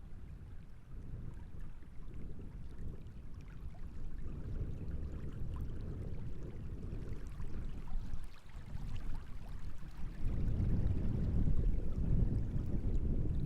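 Wind gusting on the microphones as a low, uneven rumble that grows stronger about ten seconds in, with small waves lapping and splashing at the reservoir's edge.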